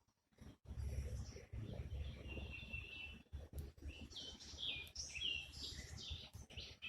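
Outdoor birds chirping: short high calls scattered throughout, with a quick run of falling notes about four to five seconds in, over a low rumble.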